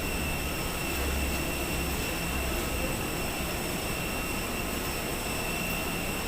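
Steady jet airliner noise: a low rumble and hiss with a steady high-pitched whine that does not change.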